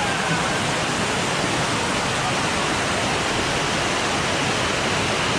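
Waterfall: water cascading over rocks, a close, steady rush with no letup.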